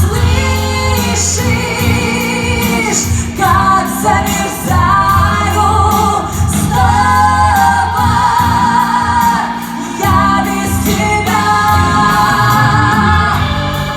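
Two women singing long held notes with vibrato, partly in harmony, over a pop backing track with bass and a steady drum beat.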